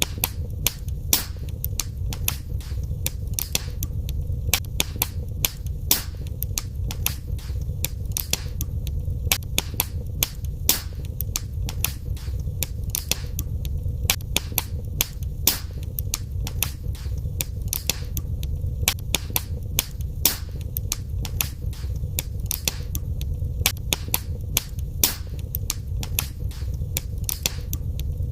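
Wood fire crackling in a fireplace: many sharp, irregular pops and snaps, several a second, over a steady low rumble of the flames.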